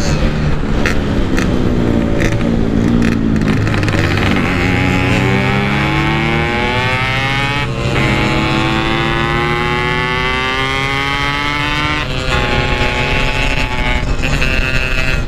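Yamaha RX-King 135cc single-cylinder two-stroke engine accelerating hard, its pitch climbing steadily and dropping twice as it shifts up. A few sharp cracks in the first three seconds.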